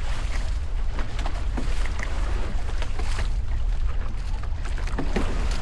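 Wind buffeting the microphone over water rushing and splashing against the hulls of a Hobie 16 catamaran under sail.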